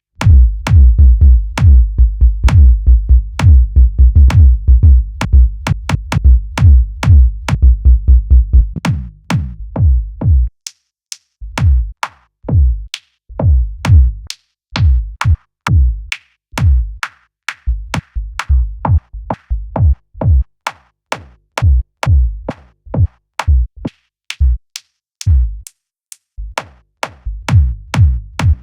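Electronic dance track built from drum-machine beats and triggered samples on the Launchpad music app. A dense, bass-heavy kick pattern runs for about the first ten seconds, then gives way to sparser, choppier hits.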